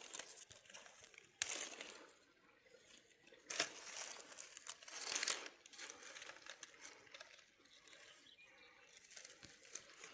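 Intermittent rustling and crinkling, in a few short noisy bursts a second or two apart, with quieter rustle between them.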